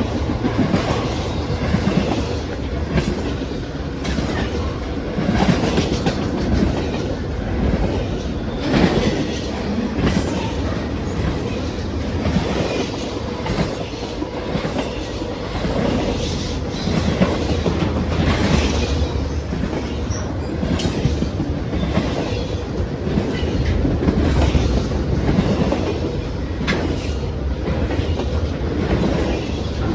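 Freight train cars rolling past, their wheels clattering steadily over the rail joints.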